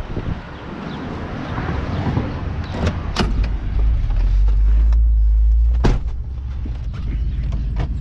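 A 1972 Chevy C20 pickup's 350 small-block V8 running rough as it pulls away with its 4-speed manual, a deep rumble swelling about halfway through, with a few sharp clacks. The engine has an exhaust leak at the headers and seems not to fire on all cylinders.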